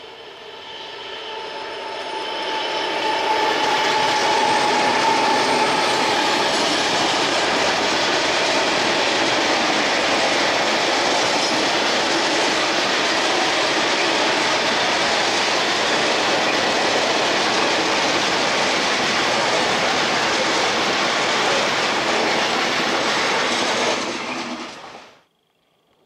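Freight train hauled by ZSSK Cargo class 746 and 736 diesel locomotives, growing loud over the first few seconds as it approaches and passes close by. A long string of empty open wagons follows, rolling and rattling over the rails in a steady din that cuts off abruptly near the end.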